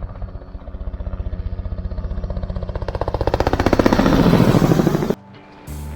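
Crop-spraying helicopter flying low, its rotor beating in a fast, steady pulse that grows louder as it comes closer and peaks about four seconds in, then cuts off suddenly near the end.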